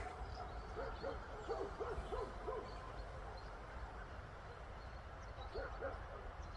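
A bird calling in runs of short, low hooting notes, about four a second: one run of five notes, then a shorter pair near the end. Faint high chirps from other birds behind it.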